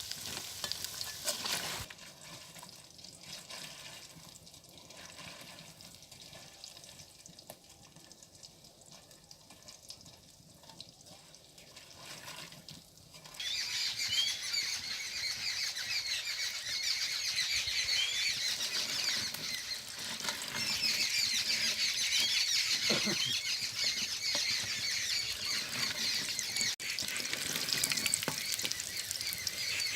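Chicken pakoras deep-frying in hot oil, a crackling sizzle. It is fairly quiet at first, then turns abruptly much louder a little under halfway in and stays loud.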